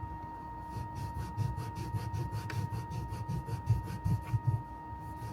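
Rubbing and handling noises as leftover grip-tape solvent is wiped off a golf club shaft, over a steady high-pitched hum.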